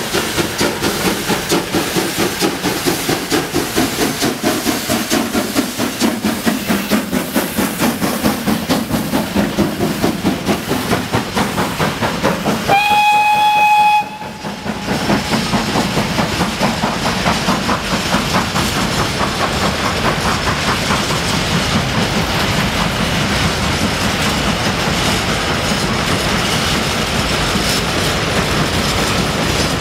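Freight train hauled by locomotive 33-236 rolling past, its wagon wheels clacking in a steady rhythm over the rail joints. About halfway through, one short steady horn blast lasting about a second sounds over the clatter.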